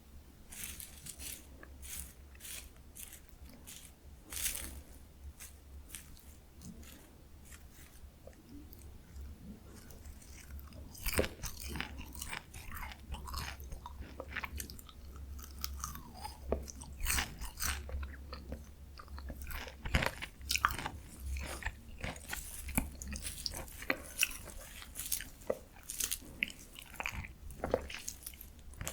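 Close-miked eating sounds of cold spicy bibim noodles: wet chewing and biting clicks, sparse at first and coming quickly and more loudly from about eleven seconds in.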